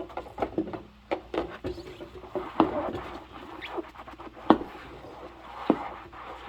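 Rubber-gloved hands rubbing and scrubbing wet dishes, giving a quick run of short high squeaks mixed with light knocks of dishware.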